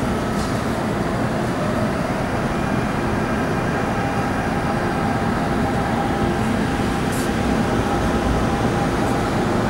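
CAF-built MTR electric train running along the adjacent track: a steady rumble of wheels on rail with a faint hum.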